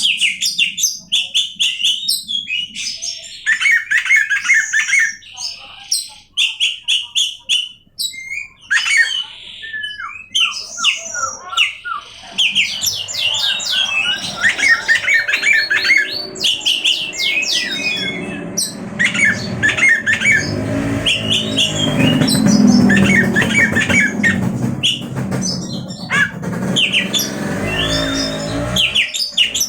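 Oriental magpie-robin (kacer) singing loudly and continuously, a rapid, varied song of whistles, chirps and harsh notes. From about halfway through, a low rumble sits underneath the song.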